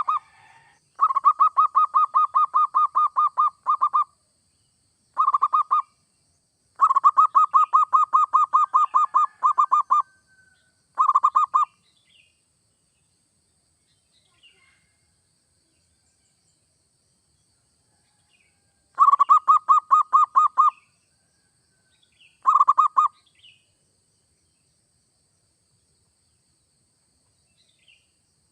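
Zebra dove (perkutut) singing: runs of quick, evenly pulsed coos of one to three seconds each, with a long pause in the middle and the last short run a little past the middle. Faint higher chirps sit between the runs.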